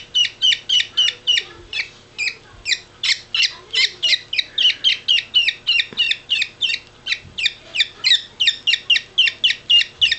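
Parakeet (budgerigar) chick's food-begging calls: rapid, rhythmic cheeping at about four calls a second. This is the hungry cry that says 'more!'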